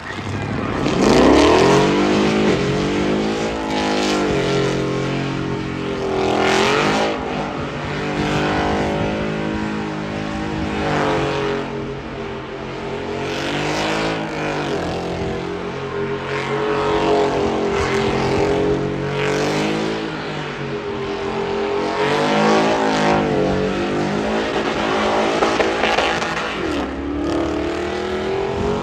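A high-horsepower truck engine revving hard, its pitch climbing and falling back again and again, about eight times.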